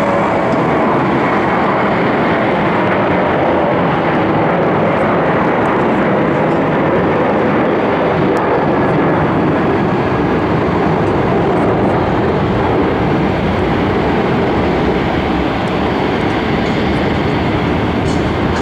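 Boeing 737-800's two CFM56-7B turbofans at takeoff thrust: a loud, steady jet noise with a faint whine near the start, easing slightly near the end.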